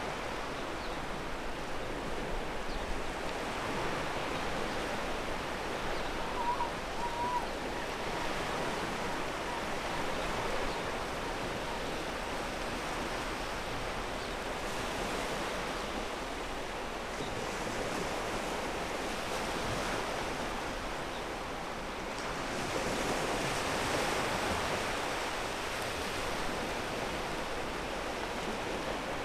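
Ocean surf washing over a pebble beach: a steady rush of waves that swells into a louder surge about three-quarters of the way through.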